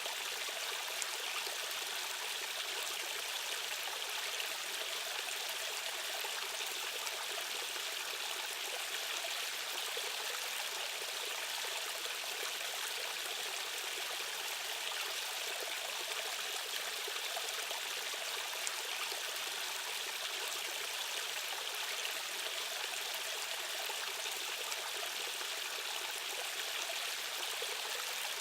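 Fast-running stream water rushing steadily, a continuous hiss that sits high, with little deep rumble.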